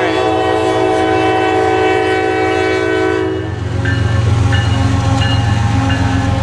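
GE freight diesel locomotive air horn sounding one long chord that cuts off about three seconds in. Under it the locomotives rumble steadily as the train passes slowly. Short high squeals follow the horn.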